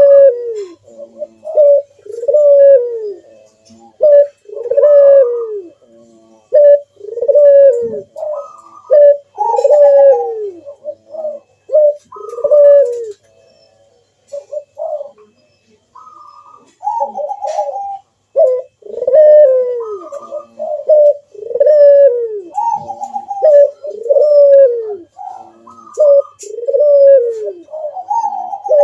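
Puter doves (domestic ringneck/collared doves) cooing in their full 'manggung' display. A string of loud coos falls in pitch, about one every second and a bit, with shorter higher notes between them. The calling pauses for a few seconds midway, then starts again.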